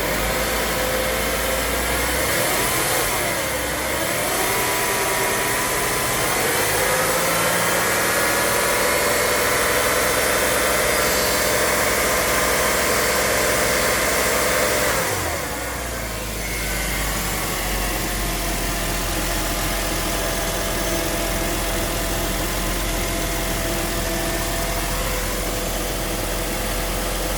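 2001 Porsche Boxster S's 3.2-litre flat-six revved by hand with the engine warm: a short rise in revs, then revs raised and held for about eight seconds before dropping back to a steady idle about fifteen seconds in.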